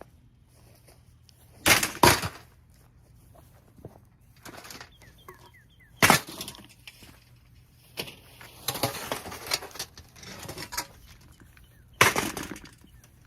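A plastic Holmes box fan being smashed: a few heavy blows a few seconds apart, a pair early on and single strikes after, with a stretch of cracking and rattling of broken plastic in the middle.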